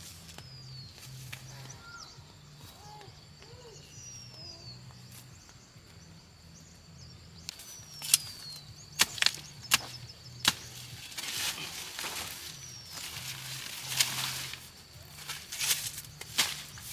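Knife chopping banana plant stems: a quiet start with birds chirping, then from about halfway a run of sharp strikes followed by several noisier cutting strokes.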